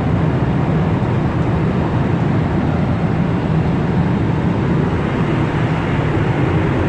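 Steady cabin noise of a Boeing 777 in cruise flight: the constant rushing of airflow and jet engines heard inside the passenger cabin.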